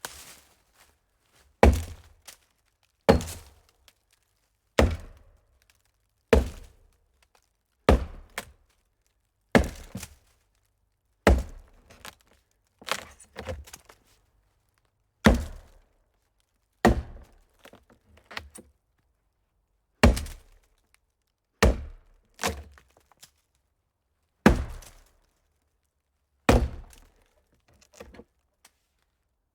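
An axe chopping into a hollow tree trunk: a steady series of heavy strikes, about one every second and a half.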